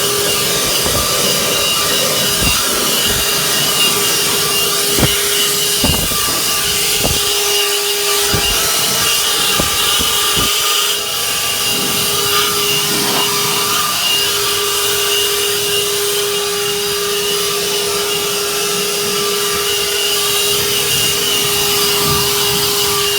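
Leaf blower running steadily at full power, blasting air over the truck's seats and carpet with a steady motor hum, with a few low knocks in the first half.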